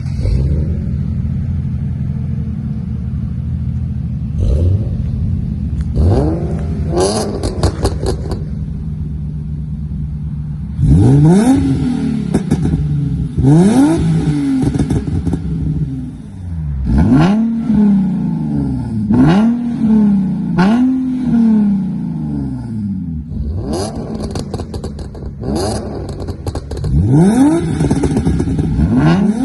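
Nissan Skyline V36's V6 through a custom exhaust, idling steadily and then revved again and again in short blips, each rising and dropping back. Sharp pops and crackles follow some of the revs.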